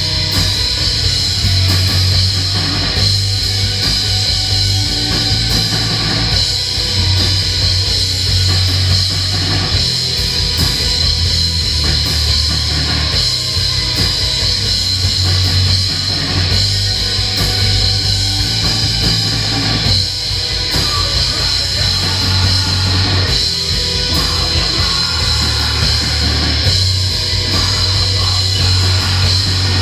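A live metal band playing loud, dense music: distorted electric guitars over a drum kit, with a heavy pulsing bass and a constant wash of cymbals.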